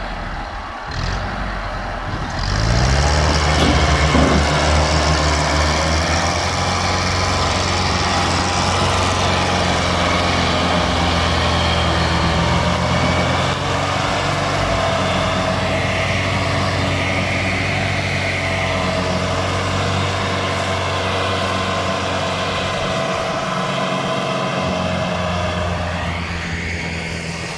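Tractor diesel engine revving up about two seconds in, then running hard at high revs under load and holding steady before easing off near the end.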